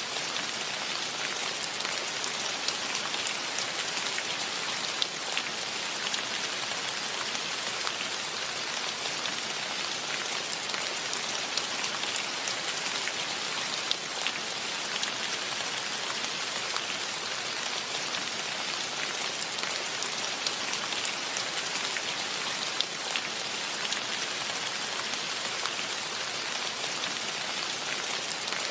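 Steady rainfall: an even hiss with scattered louder single drops ticking on surfaces.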